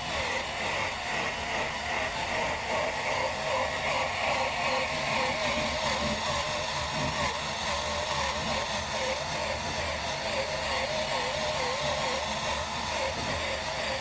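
Workpro 12-volt cordless 3-inch sander/polisher running, sanding a plastic headlight lens with a 2000-grit disc. Its motor whine wavers up and down in pitch as pressure on the pad changes, over a steady hiss of the abrasive on the plastic.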